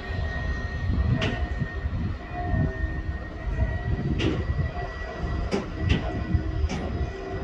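Freight train of covered wagons hauled by a Siegener Kreisbahn diesel locomotive rolling past: a steady low rumble of wheels on rails, broken by several sharp, irregularly spaced clicks as wheels pass over the track.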